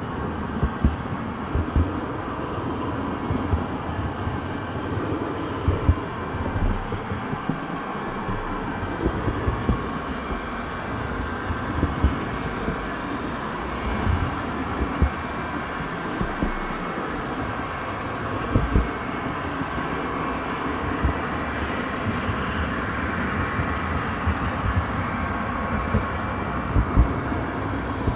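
Train running along the track: a steady rumbling noise, broken every few seconds by short, irregular low thumps.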